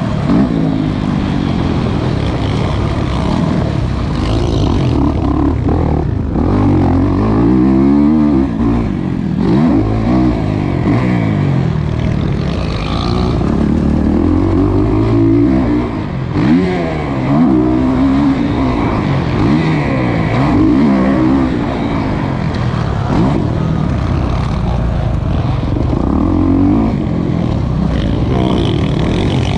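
Kawasaki KX450 four-stroke motocross bike engine being ridden hard, its pitch rising and falling again and again as the throttle is opened and shut through the gears. Heard close up from a rider-mounted camera.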